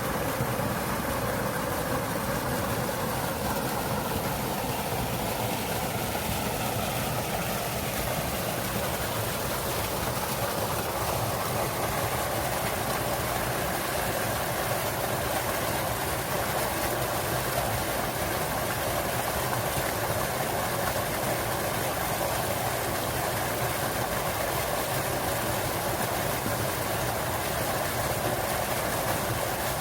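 Small waterfall in a mountain stream, water pouring and splashing in a steady rush.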